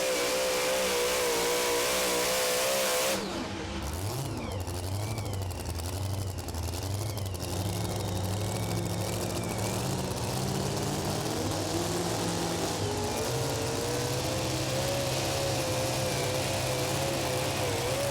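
Super modified two-wheel-drive pulling truck engine screaming at high revs, its pitch wobbling. About three seconds in it drops off sharply to a lower running note, with the revs rising and falling. It then climbs back to a steady high, wavering pitch.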